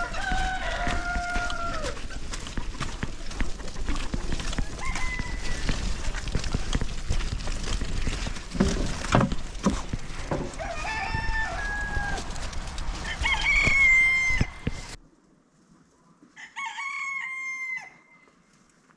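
Roosters crowing, several long crows over a steady rushing noise that cuts off abruptly partway through; one more, quieter crow follows in near quiet.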